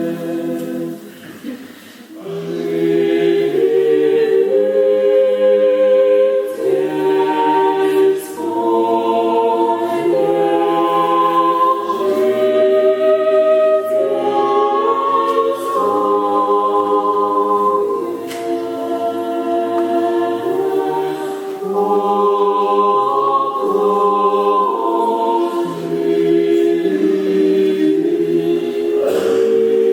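A choir singing unaccompanied Orthodox church chant in held chords that change every second or two, with a short pause about a second in before the voices come back in.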